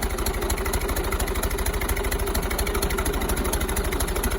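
Tractor engine running steadily, with an even, fast pulse.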